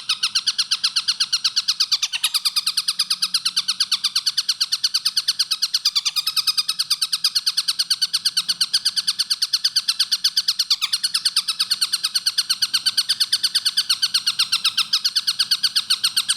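Collared kingfisher (tengkek buto) calling in a fast, unbroken run of sharp, evenly repeated notes, about five a second.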